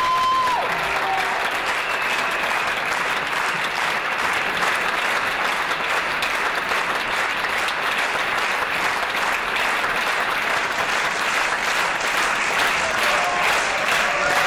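Large audience applauding steadily and at length in a hall. A short held tone fades out in the first second.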